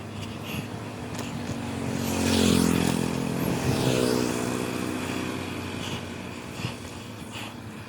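A motorcycle passes by on the road, its engine growing louder to a peak about two and a half seconds in, then dropping in pitch and fading away.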